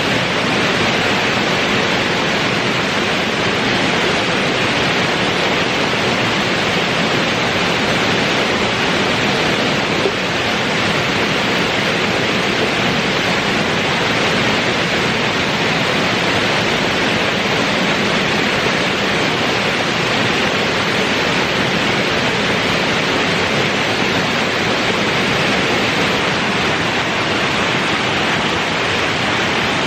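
A waterfall's falling water rushing steadily and loudly.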